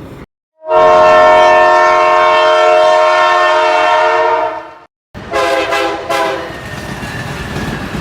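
Train horn sounding several notes at once in one long blast of about four seconds, then two short toots, after which the train rumbles past with wheels clacking over the rails.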